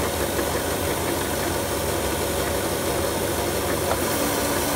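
Battery-powered commercial floor machine's brush motors running with a steady electric hum, and a light click about four seconds in.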